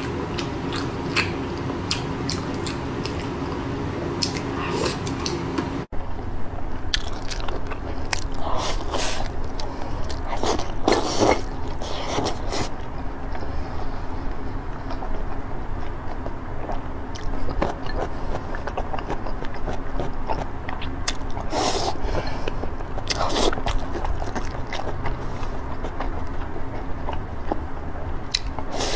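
Close-up chewing and biting of a woman eating red-braised pork belly with rice, a stream of short, wet mouth sounds coming every second or two. A brief dropout about six seconds in.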